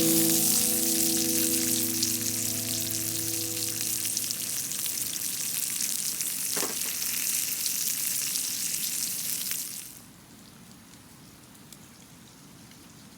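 Food sizzling and frying in a pan, with the last notes of background music dying away over the first few seconds. The sizzling cuts off about ten seconds in, leaving only a faint hiss with a few small clicks.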